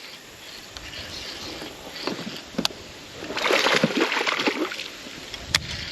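A hooked bass splashing at the water's surface beside a small boat during the fight. The loudest splashing comes a little past halfway, with a few sharp clicks.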